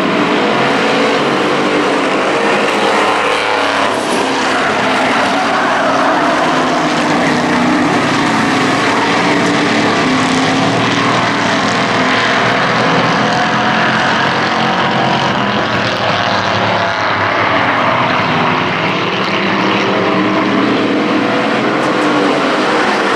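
A pack of hobby-class race trucks running flat out on an oval track, several engines overlapping in a continuous loud din, their pitches wavering up and down as they pass through the corner.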